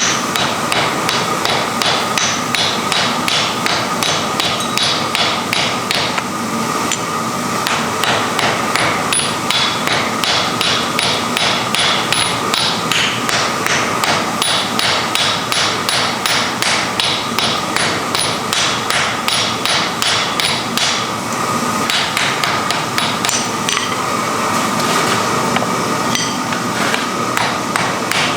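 Hammer blows forging wrought iron, struck in a steady rapid rhythm of about three to four a second, with two short breaks.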